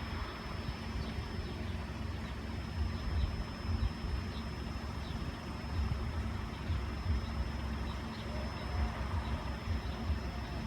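Steady road traffic noise with an uneven low rumble, no single vehicle standing out.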